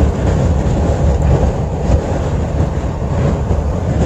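Strong sandstorm wind buffeting the microphone: a heavy, uneven low rumble with a steady hiss over it.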